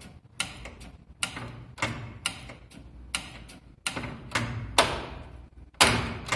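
Relays and contactors in an elevator control cabinet clicking, about one sharp click every half second at uneven spacing, over a steady mains hum. The panel has just been powered back up after its fuses were replaced with calibrated 3-amp wire.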